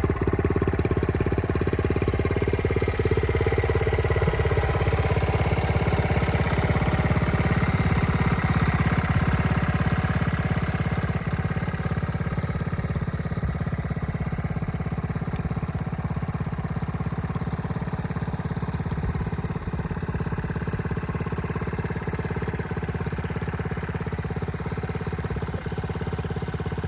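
1971 Honda CT-70H's small single-cylinder four-stroke engine idling steadily after a cold start, getting a little quieter about ten seconds in.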